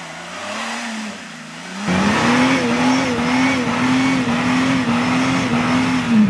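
A 4x4's engine is revved hard and held at high revs, with the noise of spinning tyres, as the vehicle tries to drive out of mud. For about the first two seconds it runs at lower revs. The revs then jump up and hold steady, and they drop away at the end.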